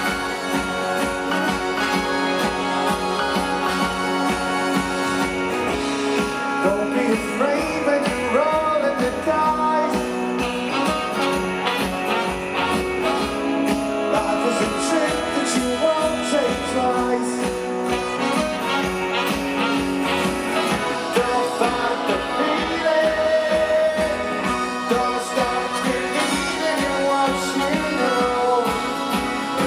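Live rock band playing an instrumental passage, loud and continuous, with a wavering lead melody line coming in about six seconds in.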